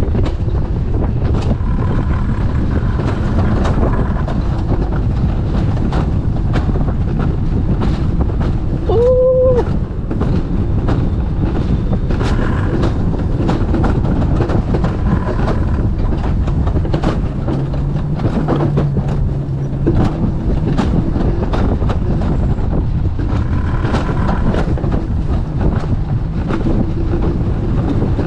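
Alpine coaster sled running down its metal rail track: a steady loud rumble with rapid clicks from the wheels on the rail. About nine seconds in there is a brief high rising tone.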